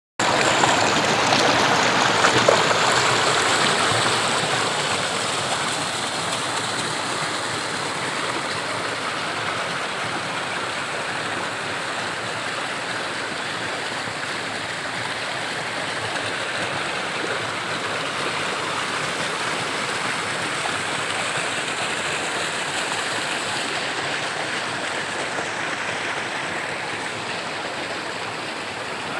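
Waterfall and stream water rushing steadily, a constant roar of falling and flowing water, a little louder in the first few seconds.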